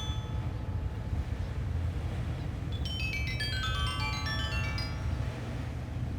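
Sanukite stone xylophone tuned to 432 Hz playing a quick run of ringing notes down a pentatonic scale, starting about halfway through, over a steady low rumble of beach wind.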